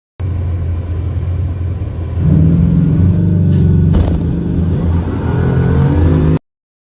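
Bugatti Chiron Super Sport's quad-turbo W16 engine running hard under acceleration. It gets louder about two seconds in, and there is a sharp crack about four seconds in. The sound starts and cuts off abruptly.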